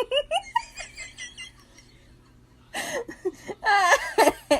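A person laughing in quick, repeated high-pitched bursts, fading out about a second in, then laughing again, with one longer high laugh near the end.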